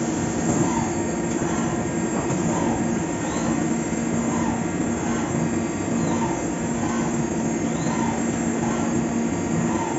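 Fagima Jazz M 5-axis milling machine cutting a part: steady, loud machining noise with a faint sweeping sound that recurs about once a second.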